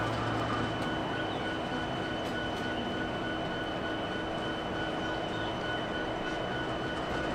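Norfolk Southern freight train's diesel locomotives running steadily: an even rumble with a few faint steady whines.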